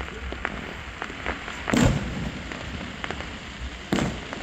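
Fireworks going off: two louder bangs about two seconds apart, among scattered sharp pops and crackles.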